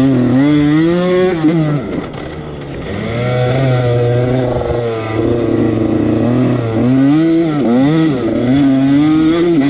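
Husqvarna TC85 dirt bike's 85cc two-stroke engine being ridden and revved, its pitch rising and falling with the throttle. It backs off briefly about two seconds in, then revs in quick rising and falling surges through the second half.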